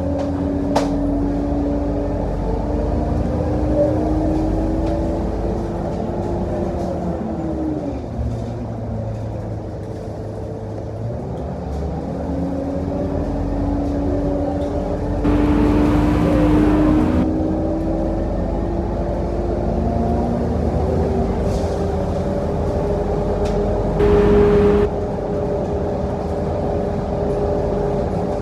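Scania K230UB single-deck bus heard from inside: its five-cylinder diesel and drivetrain whine rises while the bus drives, drops away as it slows about eight seconds in, idles low for a few seconds, then rises again as it pulls away. Two brief hissing bursts, one around the middle and one near the end.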